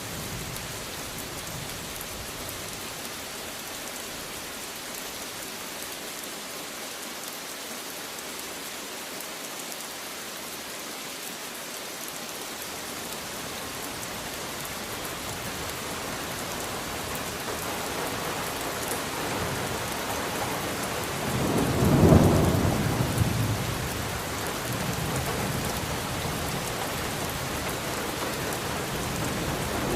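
Steady rain falling, with a roll of thunder about two-thirds of the way in, a low rumble that swells up and dies away over a few seconds.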